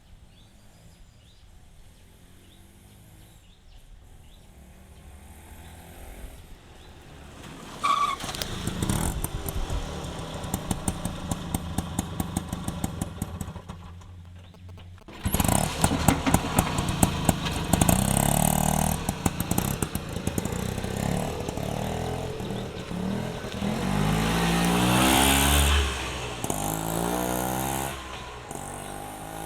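A small vehicle engine starts about eight seconds in and runs with a rapid putter. It breaks off briefly near the middle, then runs again louder, revving up and down before easing off near the end.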